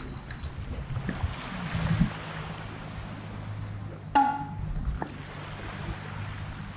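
Steady low engine hum with wind and water noise, as aboard a boat at sea. A short high-pitched call sounds about four seconds in.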